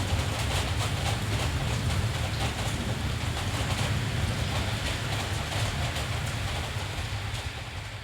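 Steady rain falling over a city, with a continuous low rumble under the patter. The whole sound eases down near the end.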